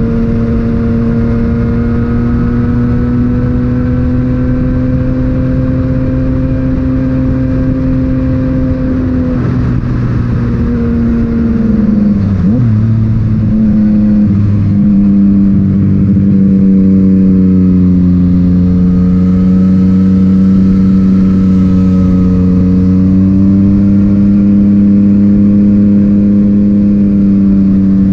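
Yamaha MT-09 inline three-cylinder engine through an Akrapovic titanium exhaust, running under steady throttle. Around the middle the pitch dips and wavers briefly, then it holds a little lower and louder.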